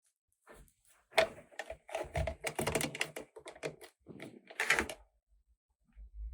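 Rapid clicking and tapping of small hard plastic toy pieces being handled and set down, a dense run of clicks for a few seconds, then a low bump near the end.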